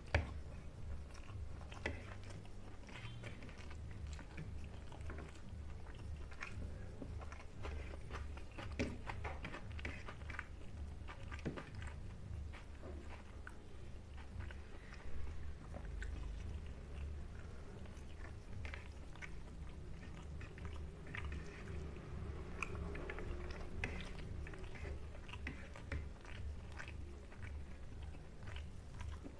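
Close-miked chewing of rice and fried pangas fish, with many short irregular clicks and crunches, and fingers mixing rice on the plate. A steady low hum runs underneath.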